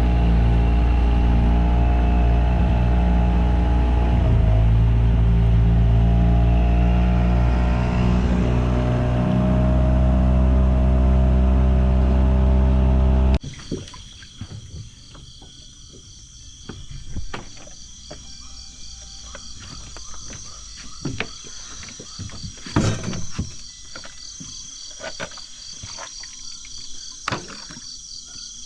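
An engine running steadily at a fairly even pitch, which stops abruptly about halfway through. After it come night insects chirring in a fast, even pulse, with frogs and scattered sharp knocks, the loudest a little after two-thirds of the way in.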